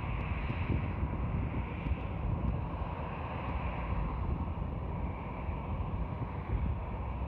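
Airbus A330 jet engines running with a steady, even rumble, mixed with wind buffeting the microphone.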